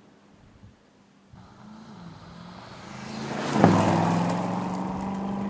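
Aston Martin DBX 707's twin-turbocharged 4.0-litre V8 exhaust, quiet at first and then building up, with a sharp loud onset about three and a half seconds in, after which the engine runs at a steady note.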